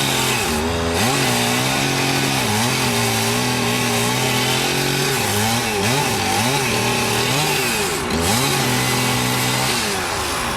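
Chainsaw engine running at high speed, its pitch dipping and recovering several times, as a saw does when it bogs under load in a cut.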